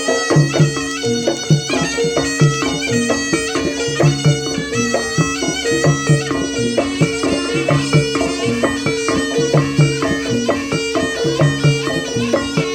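Kuda lumping ensemble music: a nasal reed shawm plays a winding melody over steady held tones, with drums and low gong-like notes keeping a beat about once a second.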